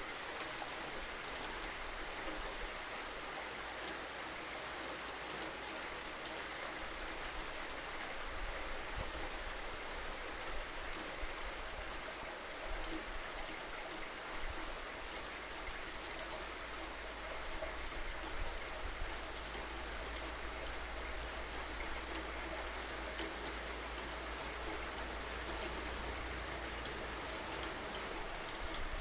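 Steady rain falling on surfaces: an even hiss with scattered louder drops, over a low steady rumble.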